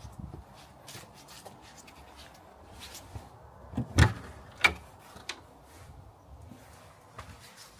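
Scattered knocks and rubbing on wood, as of footsteps and fittings being handled in a small wooden room. Two sharp knocks stand out, about four seconds in and again half a second later.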